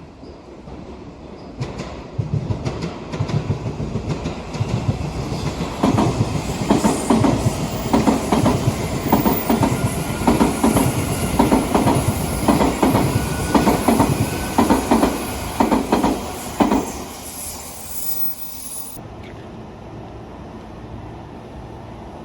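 Odakyu electric commuter train passing, its wheels clacking over rail joints in a steady repeating rhythm for about ten seconds, then the rumble fades away.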